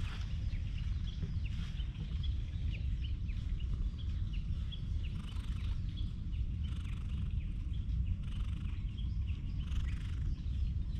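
Small birds chirping in short, quick calls again and again, over a steady low rumble.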